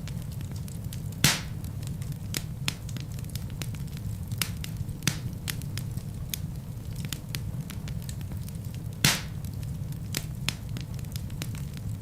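Wood fire burning in a fireplace: a steady low rumble of flames with frequent crackles and two louder pops of burning logs, about a second in and near nine seconds in.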